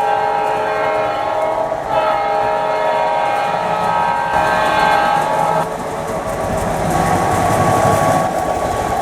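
PRR GP9 diesel locomotive's horn sounding twice, a short blast then a longer one, followed by the locomotive and its cars running on with rail clatter.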